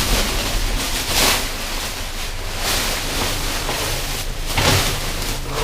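Wind buffeting the microphone: a rushing noise that surges and eases several times, over a steady low hum.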